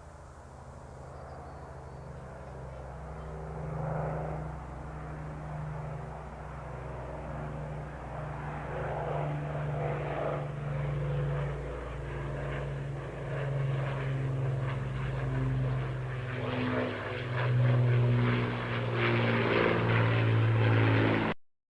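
Avro Lancaster's four Rolls-Royce Merlin piston engines droning as the bomber flies past, growing steadily louder as it comes closer. The sound cuts off suddenly near the end.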